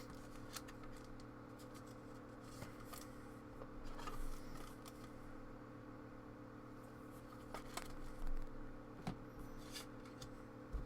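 Trading cards and a foil pack wrapper being handled, with faint scattered rustles and clicks over a steady low hum.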